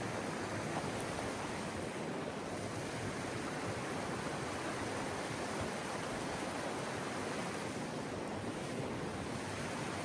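Steady, even rush of running water from a mountain stream.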